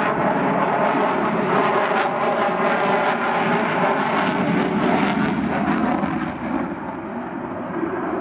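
Jet noise from an F-35 Lightning II's single F135 afterburning turbofan during a flying display: a loud, steady rushing roar with bits of crackle. It eases a little about six seconds in.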